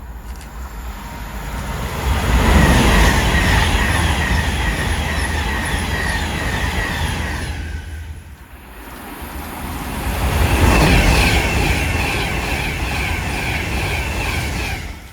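Trains passing through a station, in two loud passes that swell up about two seconds in and again about ten seconds in. Each pass has a deep rumble with a high, steady whine above it.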